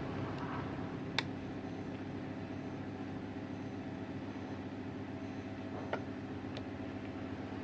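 Four short sharp clicks from handling a small plastic phone and its tools as it is taken apart, the loudest about a second in, over a steady low hum.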